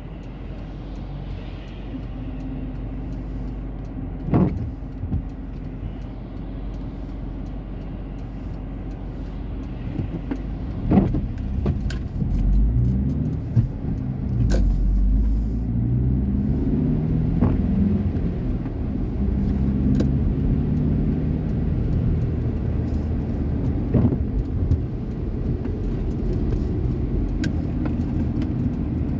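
A car engine and road noise from a moving vehicle. The engine's pitch rises and falls as it changes speed, with scattered sharp knocks and clicks.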